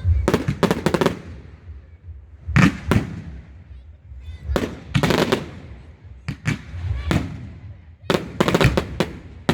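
Fireworks display: rapid clusters of sharp bangs and crackles about every two seconds, each trailing off in an echo, over a steady low rumble.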